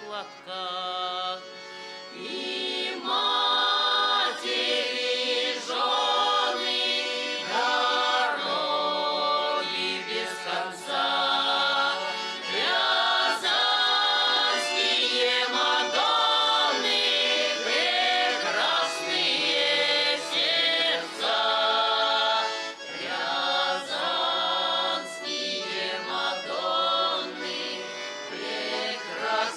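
A choir singing a song with instrumental accompaniment, quieter for the first couple of seconds and then full-voiced.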